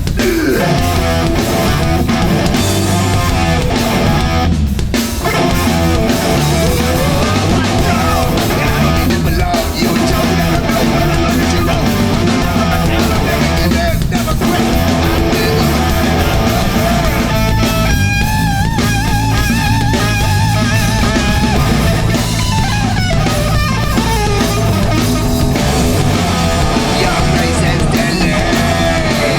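A hardcore punk band playing live at full volume: distorted electric guitars over a driving drum kit, without a break.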